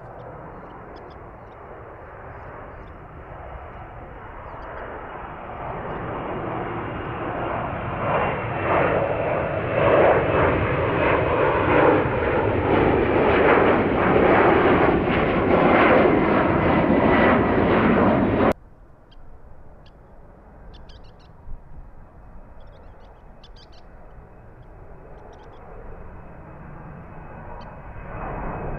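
Jet airliner departing, its engine noise building steadily over about fifteen seconds to a loud peak with a slowly rising whine. It cuts off suddenly about 18 seconds in, giving way to a much quieter, steady jet engine noise.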